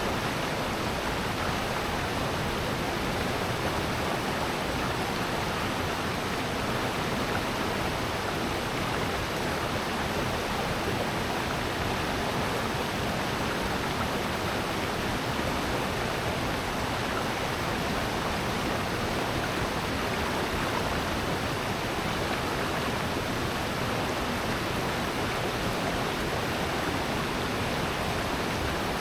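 Mountain stream in a valley gorge rushing steadily over rocks, with a waterfall, a dense unbroken hiss of white water.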